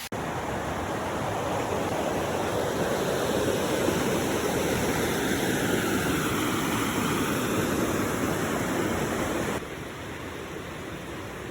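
Floodwater rushing in a river swollen by the hurricane, a steady loud wash of water that drops suddenly to a quieter rush near the end.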